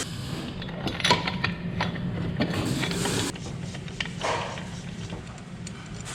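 A string of light clicks and knocks, like tools and metal engine parts being handled during teardown, over a steady low hum, with a short hiss about four seconds in.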